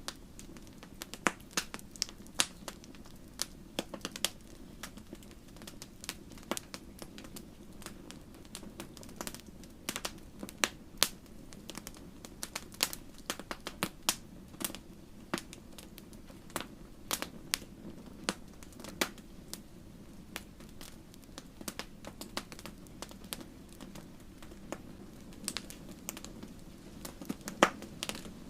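Wood fire crackling in a fireplace: irregular sharp pops and snaps, several a second at times, over a steady low rush of flame. The loudest pop comes near the end.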